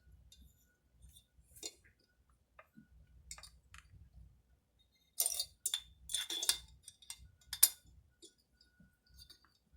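Scattered light metallic clicks and clinks of hand tools and small parts against a chainsaw being bolted back together, with a denser run of clatter a little past halfway and one sharp click just after it.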